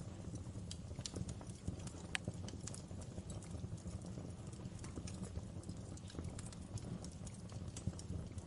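Wood fire crackling in a fireplace: irregular sharp pops and snaps over a steady low rumble of the flames, one pop louder than the rest about two seconds in.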